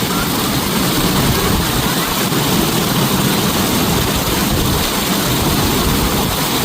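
Steady rushing of falling water: an even, unbroken hiss spread from low to high pitches.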